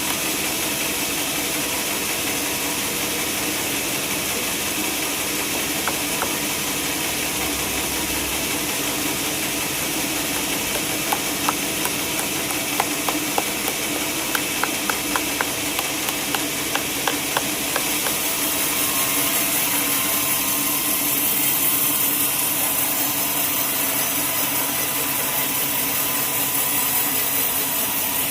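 Sawmill machinery running steadily with a hum and high hiss, and a quick run of sharp clicks partway through; the hiss grows stronger near the end.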